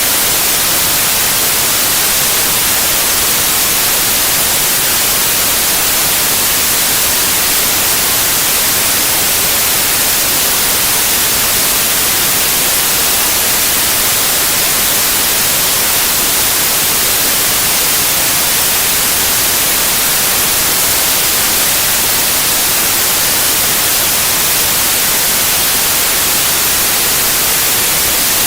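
Steady white noise: an even, unchanging hiss, bright and high-pitched, with no other sounds in it.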